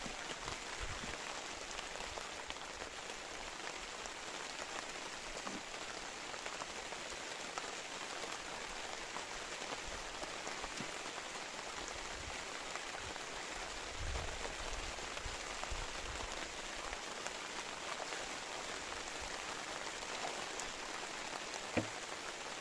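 Steady rain falling on the open water of a reservoir, an even hiss of drops on the surface, with a single sharp knock near the end.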